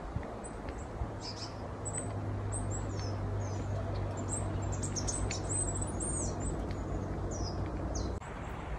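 Small birds chirping with many short, high calls over a steady background hiss. A low steady hum sits underneath and stops shortly before the end.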